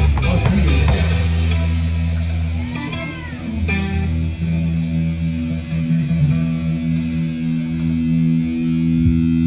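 Live rock band's electric guitar and bass holding long, ringing notes, with a brief pitch bend about three seconds in and a row of light ticks in the second half.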